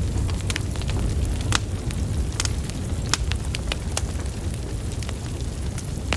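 Wood fire with burning logs crackling: sharp, irregular pops and snaps a few times a second over a steady low rumble of the flames.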